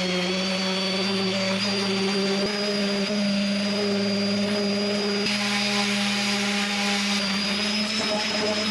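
Handheld electric sander running at full speed, a steady motor hum with a high whine over it, working the top of a reclaimed-timber planter box.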